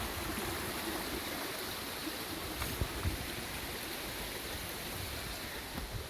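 Jungle stream running over rocks and small waterfalls, a steady rush of water, with a few light knocks about halfway through.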